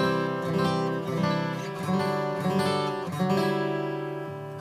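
Acoustic guitar strumming chords, several strokes about a second apart, each chord left ringing into the next.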